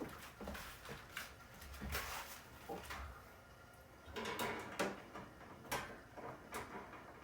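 Scattered clicks, knocks and short scrapes of hand tools working on a refrigerator's copper tubing while the refrigerant circuit is being cut with a small tube cutter. The sharpest knocks come about four to six seconds in.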